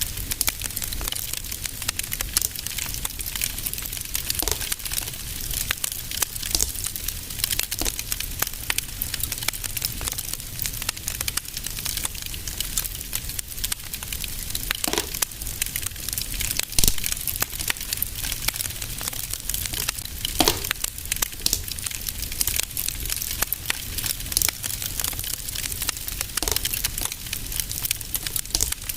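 Fireplace fire crackling: a dense stream of small crackles, with a louder pop every few seconds, over a low steady rumble.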